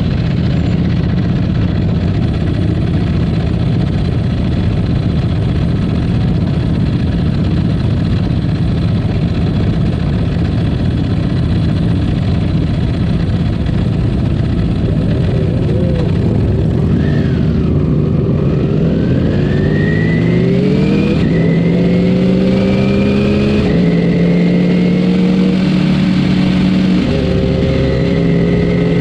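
Ducati Panigale V4 S's V4 engine heard from on board, cruising at steady revs with wind rush over the mic. About two-thirds of the way in, the revs drop and then climb again as the bike accelerates, pitch stepping with gear changes.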